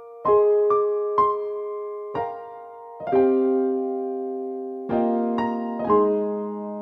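Background music: slow electric piano or piano playing single notes and chords that ring out and fade.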